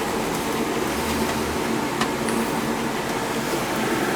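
Steady road and engine noise heard inside a moving vehicle's cabin, with a constant low hum.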